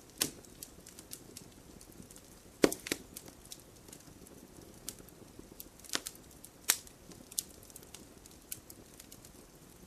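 Wood campfire crackling: irregular sharp pops and snaps over a soft low rustle of burning. The loudest pop comes a little under three seconds in, and a few more follow around six to seven seconds in.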